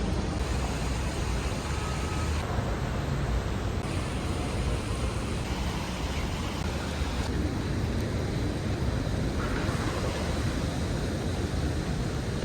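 Steady city traffic noise: a low rumble with a hiss over it, changing in tone abruptly several times.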